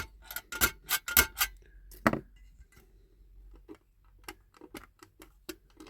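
Sharp metallic clicks and taps of a hand punch working against a diecast model car's metal body, pushing a part out: a quick run of louder clicks over the first couple of seconds, then fainter, scattered ones.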